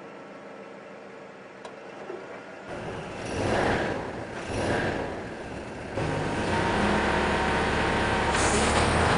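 Car engine revving hard, swelling in two surges a few seconds in, then held at high revs with the driven wheels spinning in the snow: the car is trying and failing to climb out of a snowbank.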